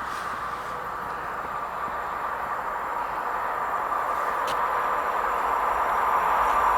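A train approaching on the line, its wheels on the rails making a steady hissing rumble that grows steadily louder.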